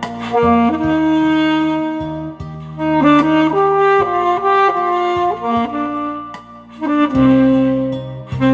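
Alto saxophone playing a slow song melody in long held notes that change every second or so, over a backing accompaniment with a bass line.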